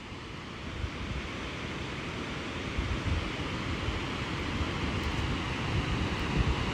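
Steady rushing noise with a low rumble, slowly growing louder.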